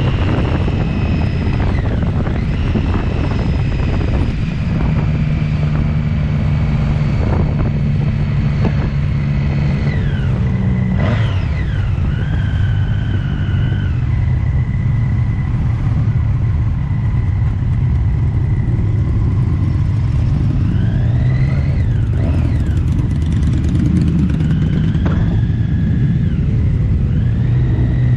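Motorcycle engine running steadily on the move, with a step in its note about eleven seconds in, amid the noise of many other motorbikes, several of them revving up and down.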